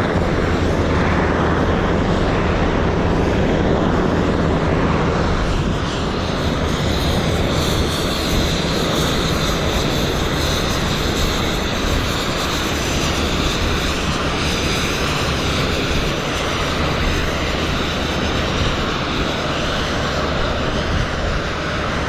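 Jet engines running on an aircraft carrier's flight deck: a loud, steady roar with a high whine that grows stronger about six seconds in.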